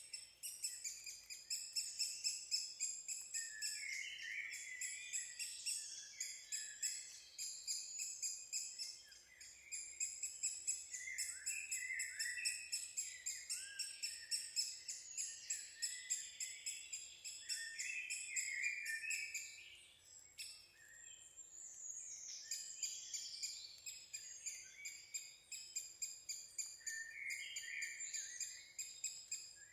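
Birds calling: a dense run of rapid, high, repeated chirps and trills, with a brief lull about twenty seconds in.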